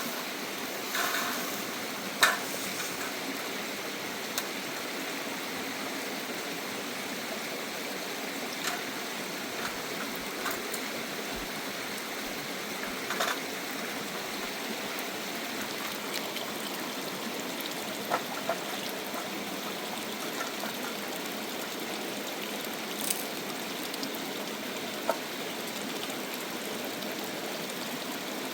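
Steady rush of a running stream, with a few scattered light knocks and clicks.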